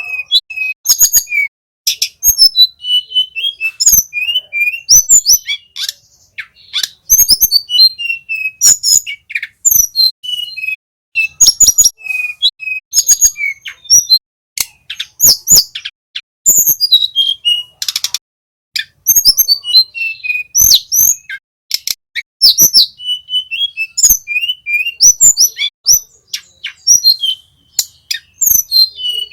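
Small flycatcher singing loud, rapid high chirps and short whistled phrases, many sliding down in pitch, in quick runs with brief pauses and sharp clicks between notes.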